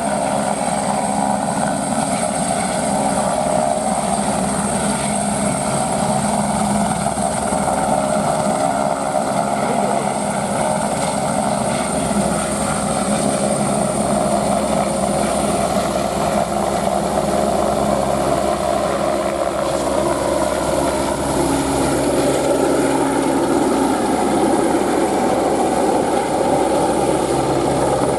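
Airbus AS350 helicopter running steadily close by, its rotor beating in a fast chop under the turbine's whine. A thin high whine fades out about halfway through.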